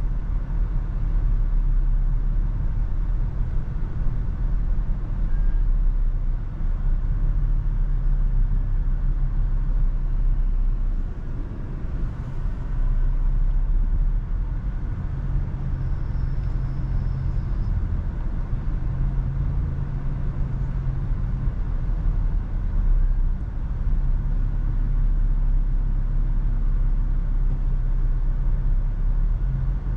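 Steady low rumble of a Toyota FJ Cruiser on the move, engine and road noise heard from inside the cabin, dipping slightly for a moment partway through.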